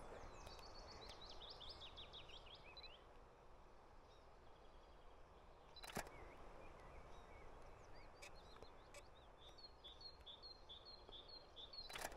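Faint songbirds singing over low outdoor background noise: a phrase of quick falling notes in the first few seconds, and a string of about eight repeated high notes near the end. A single sharp click about six seconds in.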